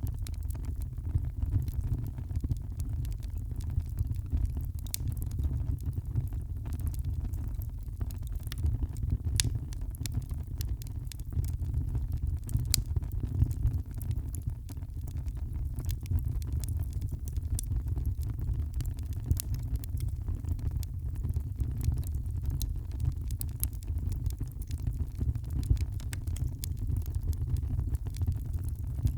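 Wood fire crackling, with irregular sharp pops and snaps scattered over a steady low rumble of the burning fire.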